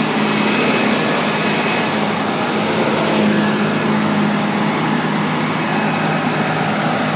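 Volvo FH truck's diesel engine held at maximum revs, running steadily with a constant hum. It is running a catalytic converter regeneration to burn off oil passed by a failed turbo.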